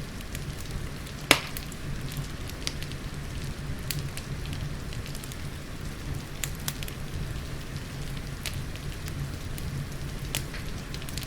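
Fireplace fire crackling with scattered sharp pops, one much louder pop about a second in, over steady falling rain and a low rumble.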